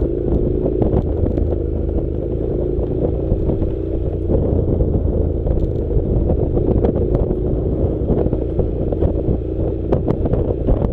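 Honda NC700 motorcycle's parallel-twin engine running steadily while riding a rough dirt track, with frequent clatter and knocks from the bike over stones and ruts.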